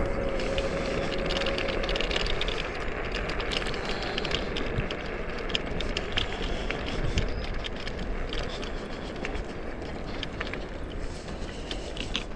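Dual-motor electric scooter being ridden: a steady electric motor whine that fades out about two seconds in, over a constant rush of wind and tyre noise with many small clicks and rattles.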